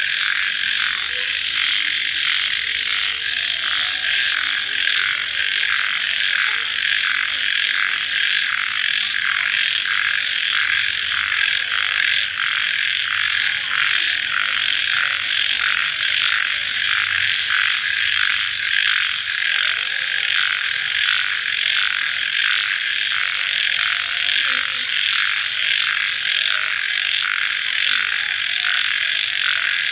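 Dense night chorus of crickets, a steady high chirring that pulses about twice a second without a break.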